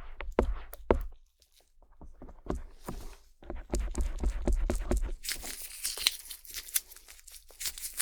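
Stainless steel ear pick tapping and scraping on the outer ear of a binaural microphone, close up: a few sharp taps in the first second, a short pause, then rough scratching that turns brighter and hissier about five seconds in.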